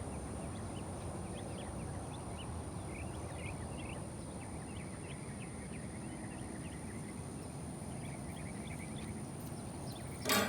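Outdoor background at a fishing spot: a steady low rumble with scattered short bird chirps and a steady high-pitched hum. A single sharp click near the end.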